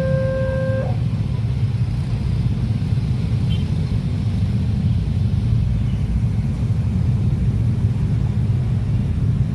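Steady low rumble of a long train running past a level crossing. The crossing's electronic two-tone warning signal sounds over it and stops about a second in.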